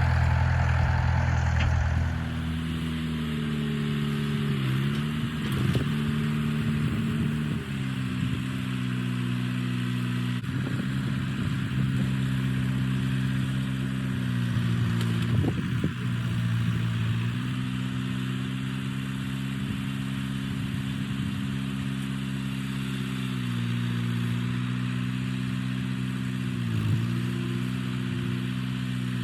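International Harvester 574 tractor engine running steadily. Its pitch drops about two seconds in, then sags briefly and picks back up several times through the stretch.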